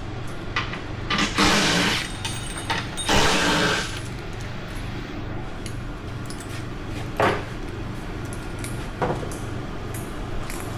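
Hand tools and metal truck parts clinking and scraping during disassembly: two longer scrapes in the first few seconds, then single sharp knocks about seven and nine seconds in.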